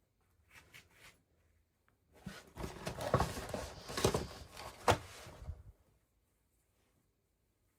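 Packaging being handled during a toy unboxing: a few small clicks, then about three and a half seconds of dense rustling and crinkling with scattered clicks and one sharp click near the end.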